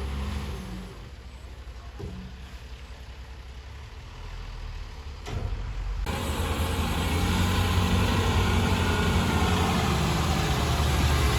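Heavy diesel engine of earthmoving machinery running with a deep, steady drone. About six seconds in the sound changes abruptly and grows louder and fuller.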